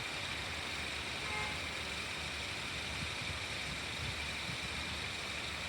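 A vehicle engine running steadily, a low hum under an even outdoor background hiss, with a brief faint high chirp about a second in.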